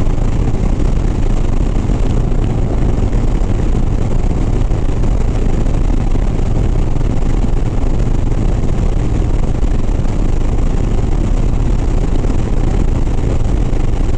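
Harley-Davidson Sport Glide's V-twin engine running steadily at highway cruising speed, with a constant rush of wind and road noise over it.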